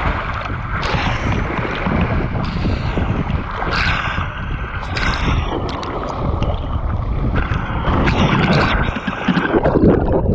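Water rushing down a mat-racing water slide, with wind buffeting the microphone and many sharp knocks and splashes.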